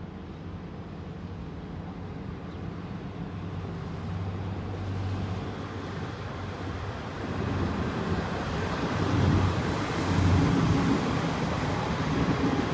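A vehicle's engine running with a broad rushing noise, growing steadily louder as it draws near.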